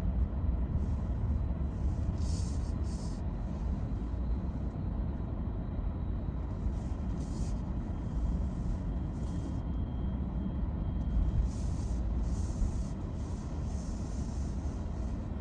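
Steady low rumble of an automatic tunnel car wash heard from inside the car's cabin, with short bursts of hiss now and then.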